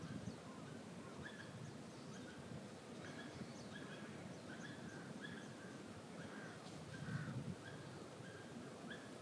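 Birds calling faintly, short calls repeated every half second or so, over a low outdoor background rumble that swells briefly about seven seconds in.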